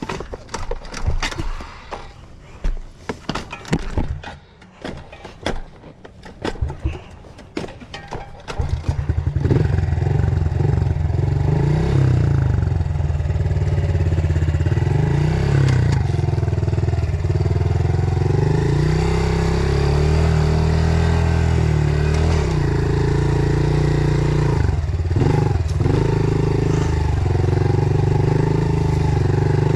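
Irregular knocks and clatter for the first eight seconds or so. Then, about nine seconds in, a small off-road engine starts and runs, its pitch rising and falling with the throttle.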